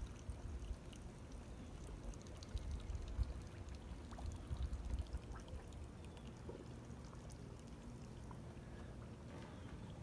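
Faint water sounds of mullet at the surface: small splashes and trickling, with scattered little pops over a low rumble.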